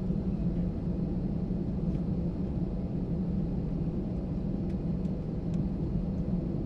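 Steady low rumble inside an Airbus A320 passenger cabin after landing, the aircraft's engine and air-conditioning noise heard from a seat.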